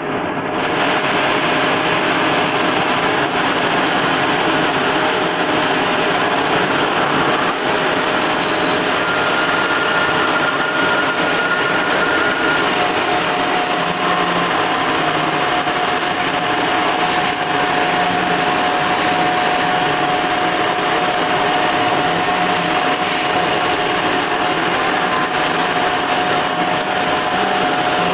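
Kress router spindle on a homemade CNC milling machine, running at 20,000 rpm with a 2 mm two-flute cutter milling 3 mm aluminium dry at a slow feed. Steady, loud machining noise with several steady tones, and a further steady tone joins about thirteen seconds in.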